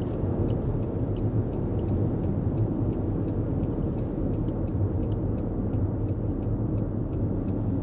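2024 Toyota Corolla Cross driving at highway speed: steady tyre and engine rumble heard from inside the cabin, with faint quick ticking over it.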